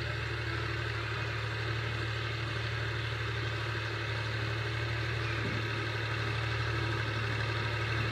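Al-Ghazi tractor's diesel engine running steadily, a low even drone.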